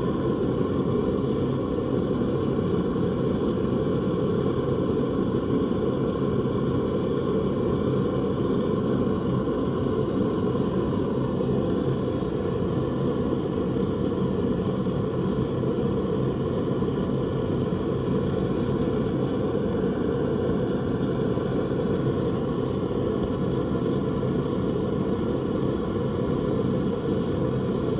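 Blacksmith's forge running: a steady, unbroken low roar with no hammer strikes.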